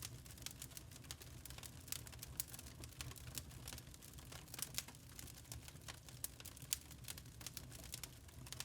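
Wood fire crackling in a fireplace: a stream of irregular small pops and snaps over a low steady rumble of the burning fire.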